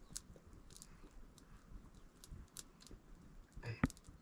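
Wood cooking fire crackling faintly, with scattered irregular sharp pops. A short, louder sound near the end.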